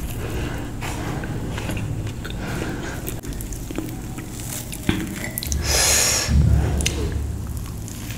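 A person chewing and eating, mouth sounds close to the microphone, with scattered small clicks and a louder noisy stretch about six seconds in.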